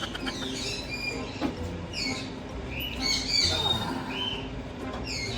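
Pet parrot chirping: a string of short, bending whistles and chirps, several a second at times.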